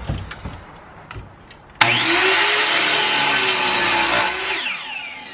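Electric saw cutting through a block of wood: it starts suddenly about two seconds in, cuts steadily for a couple of seconds, then stops and winds down with a falling whine. A few light knocks of handling come before the cut.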